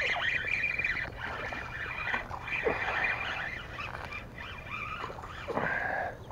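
Birds calling repeatedly in short, wavering calls, with one longer, steadier call near the end.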